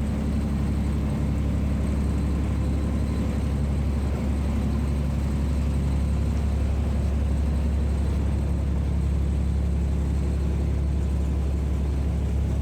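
Steady low vehicle engine drone with a constant hum, unchanging throughout.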